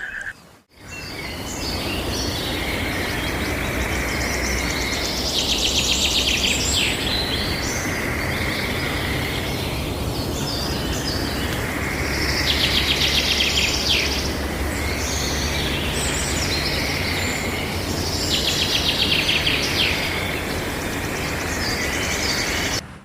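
Birds chirping and calling over a steady outdoor background rumble, with a rapid, chattering trill that comes back three times, about seven seconds apart.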